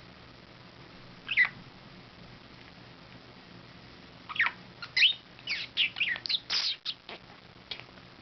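Budgerigar chirping: one short chirp, then a quick string of rapid, high chirps and warbles a few seconds later.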